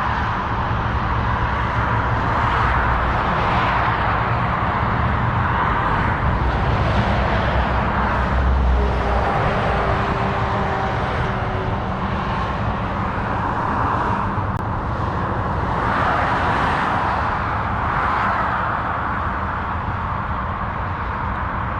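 Road traffic: vehicles passing one after another in a steady rush that swells every two or three seconds.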